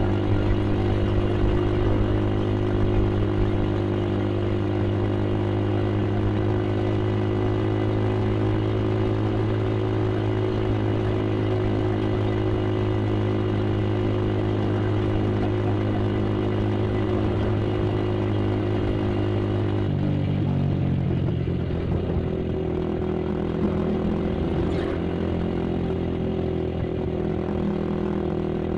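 Yamaha Vixion's single-cylinder four-stroke engine running steadily while the motorcycle is ridden at cruising speed. About twenty seconds in, the engine note changes and gets slightly quieter.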